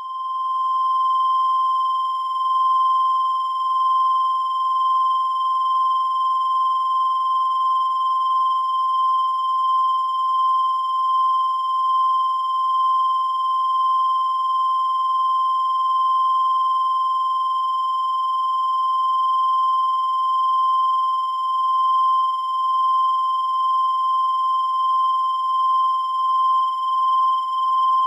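A continuous high-pitched electronic tone, held at one pitch without a break, its loudness wavering slightly.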